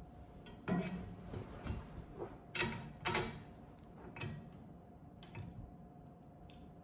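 A series of sharp clicks and knocks, about one a second and fading out near the end, as the steel gate mount with its rewelded bolt is handled and fitted into place.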